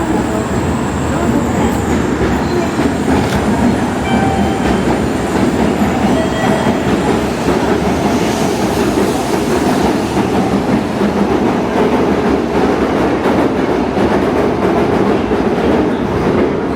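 A Tokaido Shinkansen train moving alongside the platform, a loud steady running noise that builds a little after the first couple of seconds.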